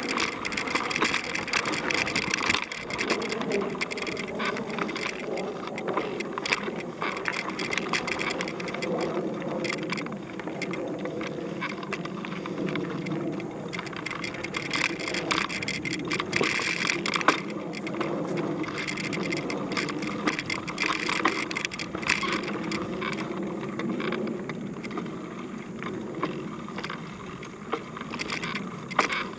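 Mountain bike rolling along a dirt singletrack trail: tyre noise on the ground with frequent clicks and rattles from the bike over bumps.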